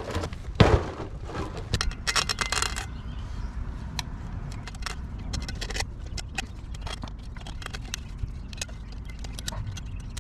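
Scattered clicks and light rattling knocks, a quick flurry of them in the first few seconds, over a low steady rumble.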